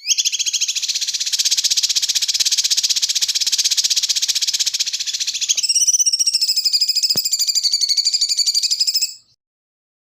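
A songbird's rapid buzzing trill, held without a break. About halfway through it switches to a higher, clearer ringing trill, then cuts off suddenly.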